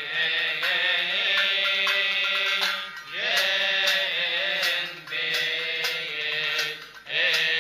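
A male voice chanting a Coptic Tasbeha hymn in long, melismatic phrases, breaking briefly for breath twice, over a steady beat of struck percussion, about two strikes a second.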